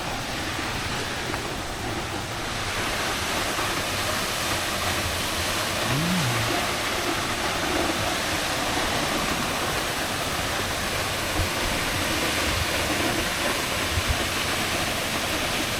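Steady rush of a waterfall, an even hiss of falling water that grows fuller about two and a half seconds in.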